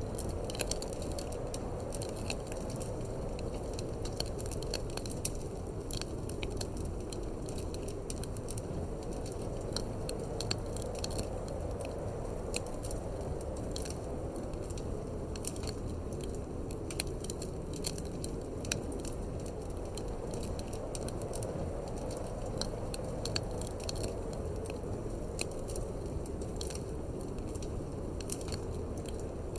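Wood fire in a fireplace crackling, with irregular sharp pops and snaps, over a steady low wind.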